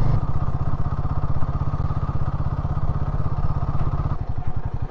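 Royal Enfield Himalayan 450's single-cylinder engine running steadily under way, with evenly spaced exhaust pulses. A little past four seconds in, the engine note drops and changes.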